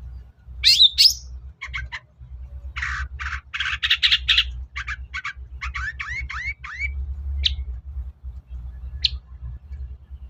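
Long-tailed shrike (cendet) singing in full voice: a busy string of harsh rasping notes and quick rising whistles, then two short sharp calls near the end, over a steady low rumble.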